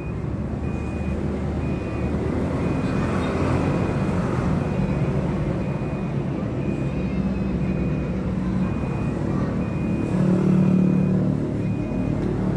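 Motor vehicle engine running nearby, a steady low hum that swells about ten seconds in, with a faint high beep repeating evenly throughout.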